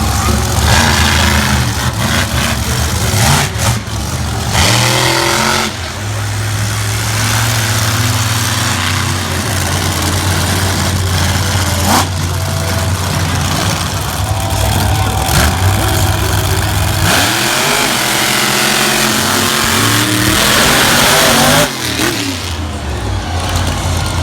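Monster truck engines running loud, with a steady low drone broken several times by revs that rise and fall in pitch.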